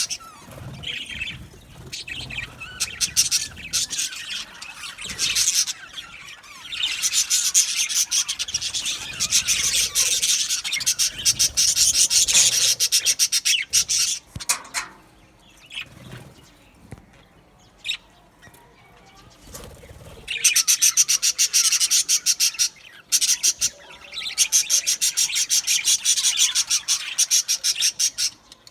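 Budgerigars chirping and chattering, a dense run of rapid chirps that drops away for several seconds in the middle and picks up again after that.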